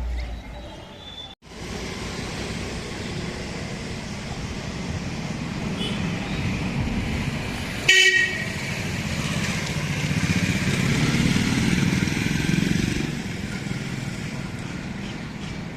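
Road traffic passing steadily, with one short vehicle horn toot about halfway through.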